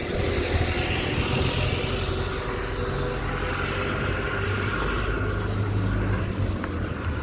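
Road traffic: vehicle engines and tyres running steadily close by.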